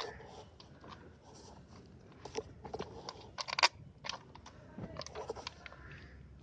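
Scattered light clicks and knocks of small metal parts being handled: the screws of a motorcycle's front sprocket cover being set in place as the cover is refitted, with a short cluster of clicks a little past the middle.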